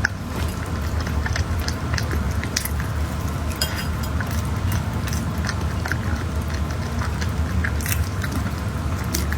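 Close-miked chewing and wet mouth clicks of someone eating a coconut latte mammoth bun, a large soft filled bread roll.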